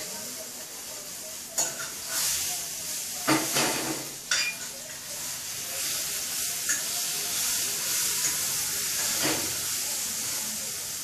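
Food sizzling in a frying pan, a steady hiss, with several short knocks and scrapes breaking in.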